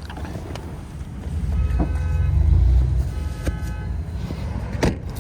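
Pickup truck engine and road rumble heard from inside the cab, swelling as the truck accelerates and then easing. Two short, steady high tones sound about two seconds in and again a second and a half later, and there is a sharp knock near the end.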